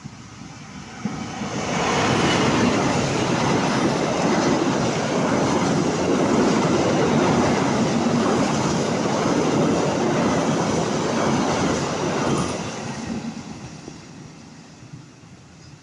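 A train passing by on the rails, its wheels and cars making a loud, steady rumble that swells over the first two seconds, holds for about ten seconds, then fades away near the end.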